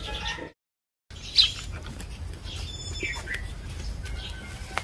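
Small birds chirping a few times over a low steady rumble. The sound drops out completely for about half a second near the start.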